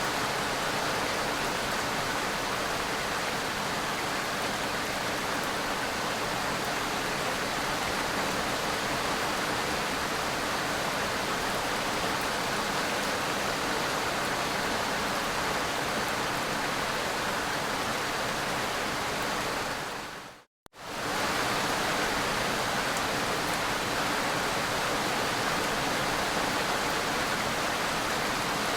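Steady, heavy rain: a dense, even hiss. It cuts out to silence for a split second about twenty seconds in, then comes straight back.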